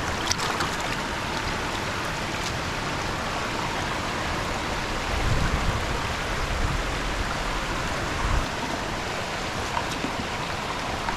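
Steady rushing of water after heavy rain, an even noise throughout, with a low rumble about five seconds in.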